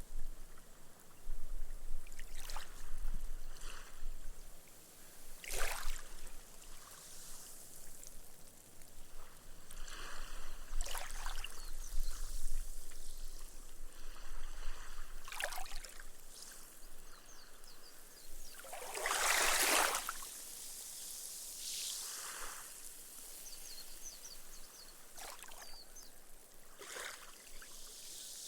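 Small, gentle waves washing up a sandy beach, each wash fizzing as its foam sinks into the sand, one after another every few seconds. A larger wash comes about two-thirds of the way through.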